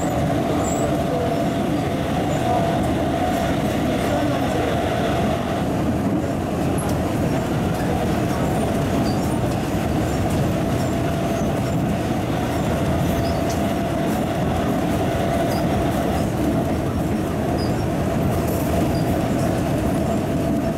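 MTR East Rail MLR electric multiple unit running steadily on the track, heard on board: a continuous rumble of wheels and rails with a steady whine held at one pitch throughout.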